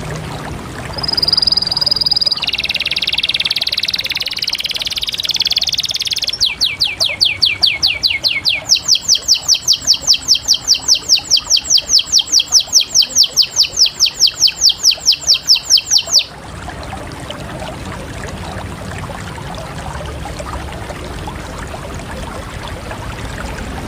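Canary singing one long song: a held high note, then a dense trill, then a long run of quick repeated sweeping notes at about four a second that stops abruptly, leaving a steady low hiss.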